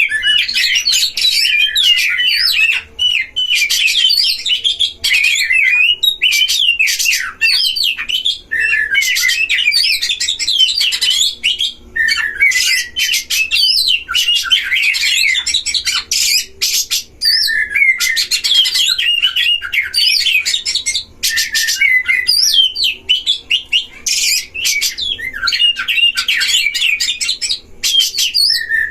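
Oriental magpie-robin song: a loud, near-unbroken stream of fast, varied whistles and chattering notes, with only brief pauses.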